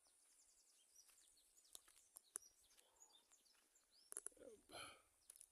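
Near silence with faint, scattered bird chirps, and a few soft clicks and a brief rustle about four to five seconds in.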